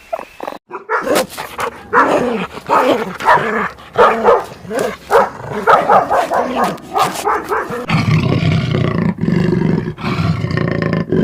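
Animal calls: a run of short, repeated calls, about two a second, starting about a second in. About eight seconds in they give way to a low, steady growl.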